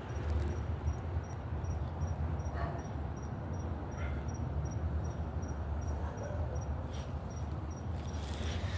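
Cricket chirping steadily, a high thin chirp repeating evenly about three times a second, over a low rumble.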